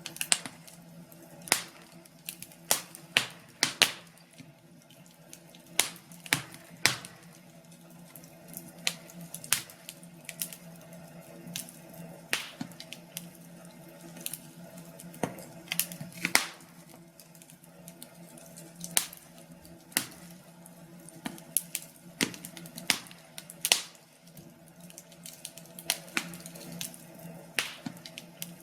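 Wood fire crackling in a fireplace, with irregular sharp pops about once or twice a second over a faint steady low hum.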